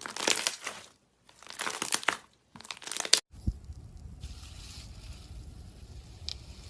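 Crunchy slime squeezed and pressed in three bursts of crackling and crunching. About three seconds in it cuts to a steady low rumble with a faint click.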